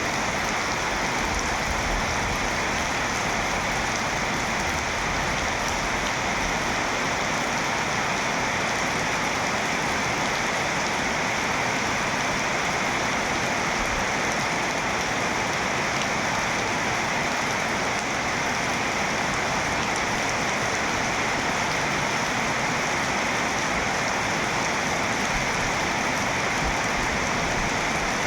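Heavy rain falling steadily, an even unbroken hiss of drops.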